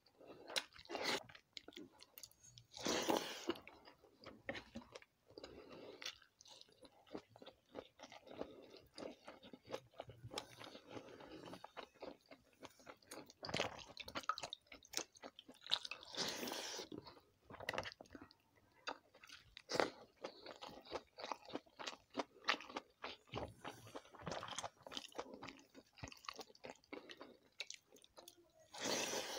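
Close-up chewing and crunching of fried vegetable bhajis and pakhala bhata (rice soaked in water), a dense run of short wet mouth clicks with louder stretches of chewing now and then.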